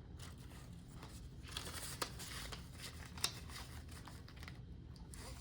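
Faint rustle of paper banknotes being handled and slipped into a cash-stuffing binder envelope, with a couple of small clicks.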